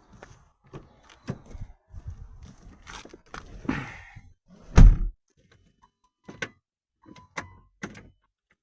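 A string of clunks and knocks around the van, the loudest a heavy thump about five seconds in, then a few short sharp clicks. The engine never cranks: the van does not react to the start attempt.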